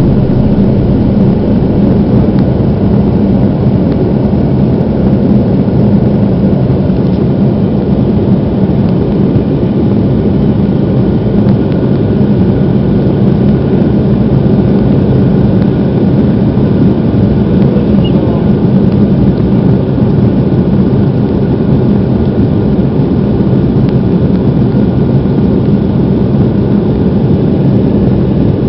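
Aircraft engines at takeoff power and rushing air heard inside a passenger cabin: a loud, steady, deep noise with faint steady tones above it.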